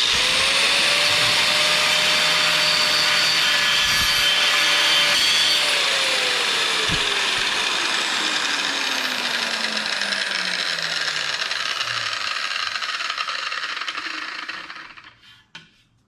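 Porter Cable PC750AG 4.5-inch angle grinder with a grinding wheel, grinding metal. It starts abruptly and runs at full speed for about five seconds. Then the motor's whine falls steadily as it winds down over several seconds, and the grinding noise fades out near the end.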